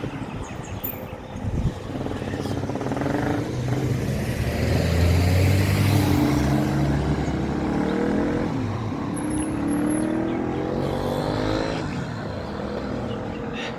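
A motor vehicle driving close by, its engine note growing loudest around the middle and climbing in pitch twice as it speeds up.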